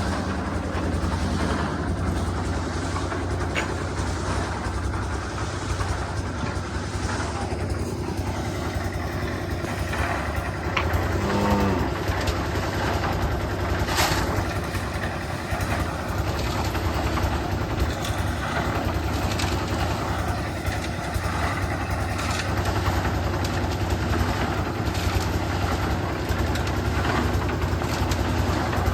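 An engine running steadily with a constant low hum, with a short pitched sound about eleven seconds in and a sharp click a little later.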